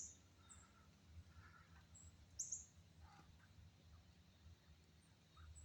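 Near silence outdoors with a few short, high bird chirps, the clearest about two and a half seconds in, and some faint, softer calls further off.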